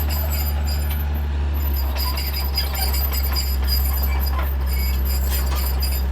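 Caterpillar D3C bulldozer's diesel engine running steadily under load, with a high metallic squeal and irregular clinking on top.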